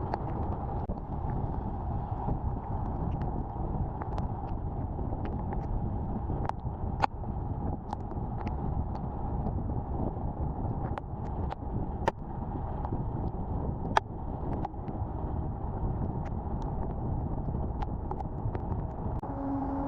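Honda Activa scooter riding along, its engine and tyres drowned in wind buffeting the microphone, with scattered sharp ticks.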